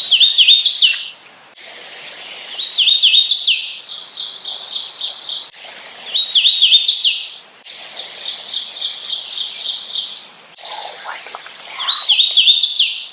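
Hooded warbler singing: about four songs of clear whistled, slurred notes rising to a loud ending on higher notes, with runs of quicker, evenly repeated notes between them.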